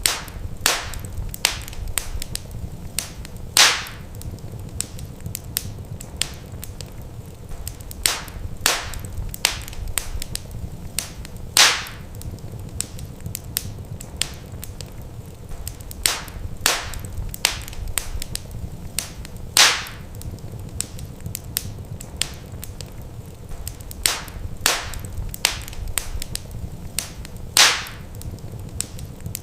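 Wood fire crackling in a fireplace: frequent small snaps and pops over a low steady rumble of the flames, with a louder pop about every eight seconds.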